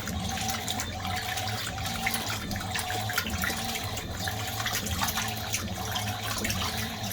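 Fisher & Paykel MW511 washing machine with water running and moving in its tub, over a steady low hum.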